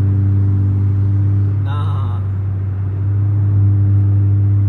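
Car engine running at a steady speed, an even low drone that dips slightly a little past the middle. A brief wavering voice-like sound cuts in about two seconds in.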